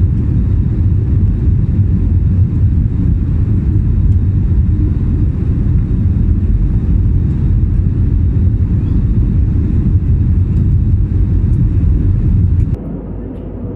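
Steady low rumble of an airliner's jet engines and airflow, heard inside the passenger cabin in flight. The sound drops abruptly in level near the end.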